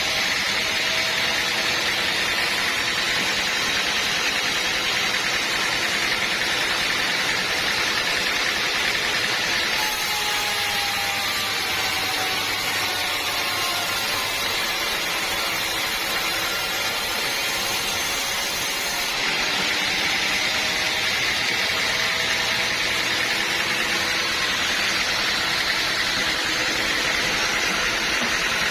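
Sawmill machinery running with a steady, even noise and no breaks.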